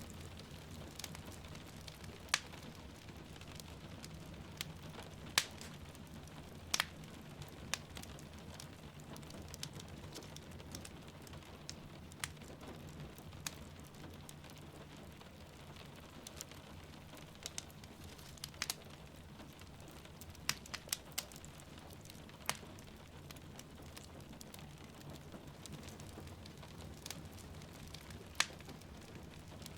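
Wood fire crackling in a fireplace, with irregular sharp pops every second or two over a steady low rumble and soft rain.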